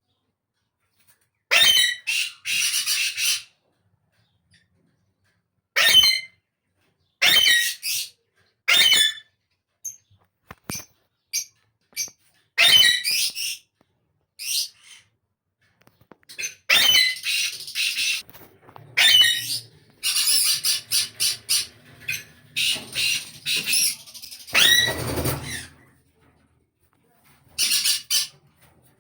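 Alexandrine parakeet squawking: harsh, raspy calls in short bursts at irregular intervals, coming thicker and longer in the second half.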